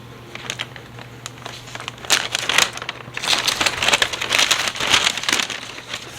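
A bag of tortilla chips crinkling and rustling as it is handled. Scattered crackles come first, then continuous loud crinkling from about two seconds in.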